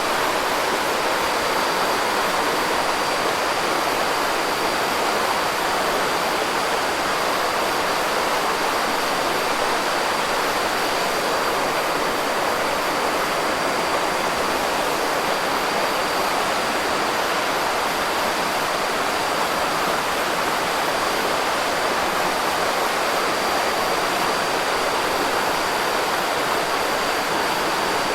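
Steady, even rushing noise of a beach-night campfire ambience, without distinct crackles or pops, with a faint thin high tone running through it.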